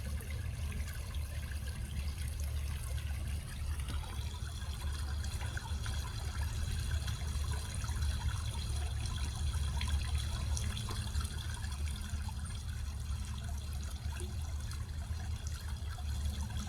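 Water trickling and splashing steadily in a fountain, over a low steady rumble.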